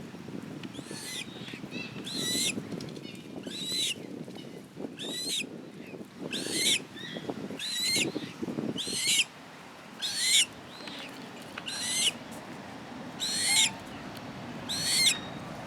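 A bird calling over and over, a short high call repeated about every second and a half.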